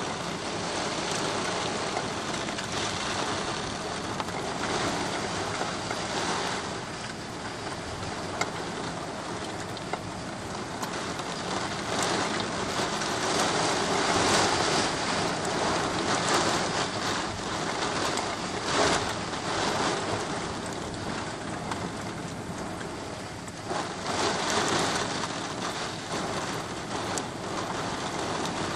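Heavy rain pouring onto the street and pavement, a steady hiss that swells and eases every few seconds. Near the end a car's tyres swish along the wet road.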